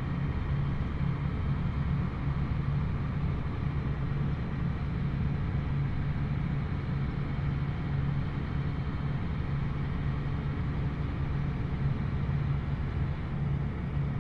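John Deere 8400R tractor's six-cylinder diesel engine running steadily under load, a constant low drone that holds the same pitch and level throughout.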